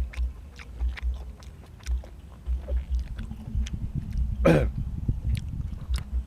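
A person chewing food close to the microphone, a steady run of soft low thuds with small wet mouth clicks, and one louder sharp sound about four and a half seconds in.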